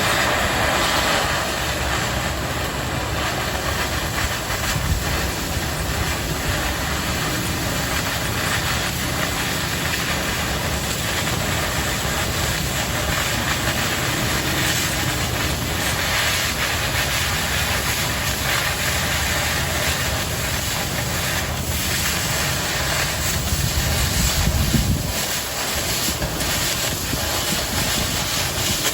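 Oxy-fuel cutting torch cutting through 1/4 inch steel plate: a steady, loud hiss of the oxygen jet and flame with a low rumble, which drops away near the end.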